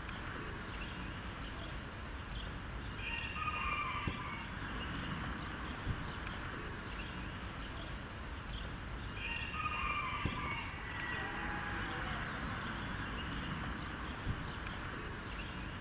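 A bird calls twice, about six seconds apart, each call a short phrase of a few notes, over a steady outdoor background noise.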